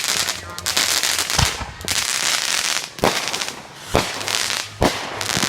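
Consumer fireworks going off: a dense, steady crackling with four sharp bangs about a second apart.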